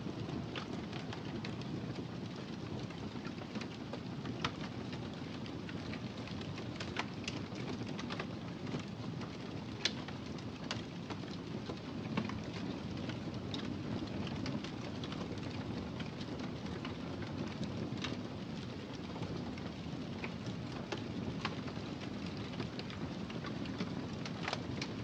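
Wood fire burning in a fireplace: a steady low rumble of flame with irregular sharp crackles and pops, a few of them louder than the rest.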